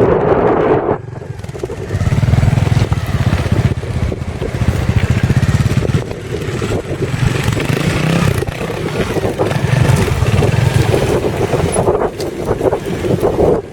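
Trials motorcycle engine running, with the throttle opened in several swells and let back down.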